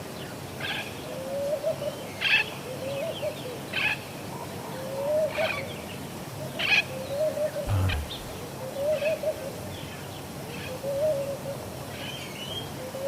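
Birds calling: a low, arching hooting call repeats about every second and a half, with short high chirps from small parrots in between. A single low thump comes about eight seconds in.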